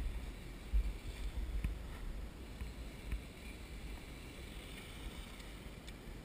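Wind rumbling on the microphone, heaviest in the first second or so, over the faint, wavering high whine of the Team Durango DEST 210 electric stadium truck's brushless motor as it drives on grass.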